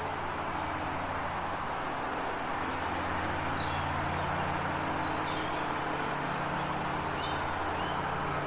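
Steady outdoor background hiss with a low, even motor-like hum under it, and a few faint, high bird chirps in the middle.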